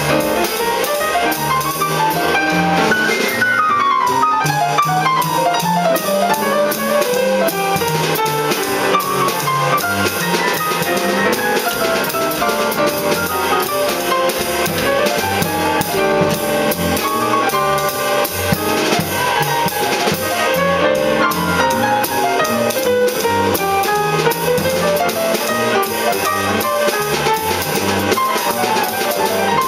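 Live jazz quartet of saxophone, piano, double bass and drum kit playing an up-tempo tune, with steady cymbal time and a stepping bass line. Fast melodic runs sweep down a few seconds in and climb again near the end.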